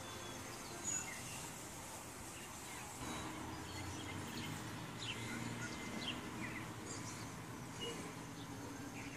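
Outdoor morning ambience: small birds chirping now and then, in short high calls, over an even background haze and a faint steady low hum.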